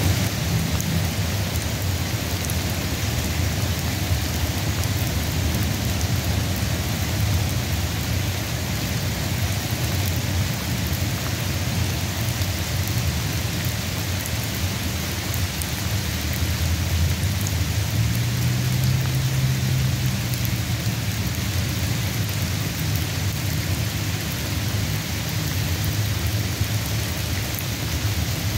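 Steady rain falling, an even hiss, with a low rumble underneath that swells for a few seconds about two-thirds of the way through.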